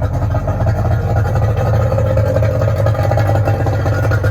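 An engine idling steadily, a loud even low hum with a fast regular pulse.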